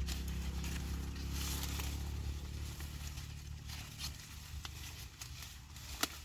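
Low engine rumble of a vehicle, fading away over the first few seconds, then faint rustling and scattered clicks with one sharp click near the end.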